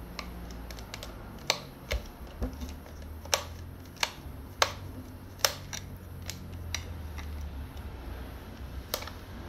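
Irregular sharp clicks and taps of a screwdriver and bits knocking against a plastic hair dryer housing as it is worked open, about a dozen over several seconds, with a low steady hum underneath.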